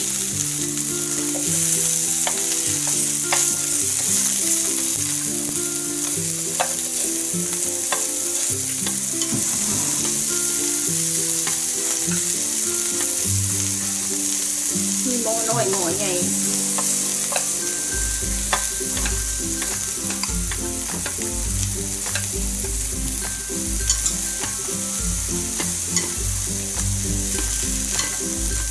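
Slices of meat sizzling steadily on a tabletop grill pan, with scattered sharp clicks of chopsticks turning them against the pan.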